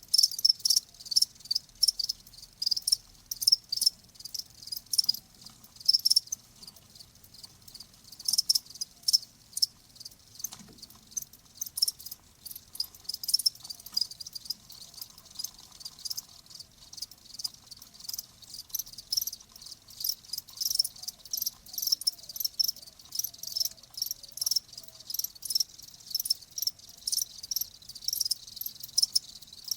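Crickets chirping: a dense run of short, high chirps repeating several times a second without a break.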